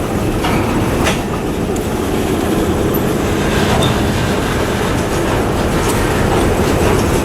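Freight train cars rolling over badly maintained track: a steady heavy rumble with occasional sharp clacks of wheels hitting rail joints.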